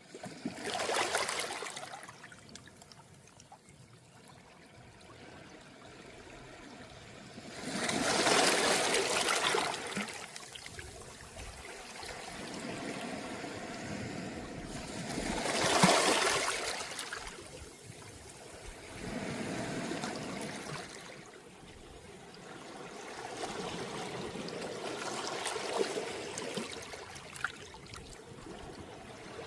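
Calm sea waves washing up onto a round-pebble beach and draining back through the stones. About five gentle surges come a few seconds apart, each swelling and fading.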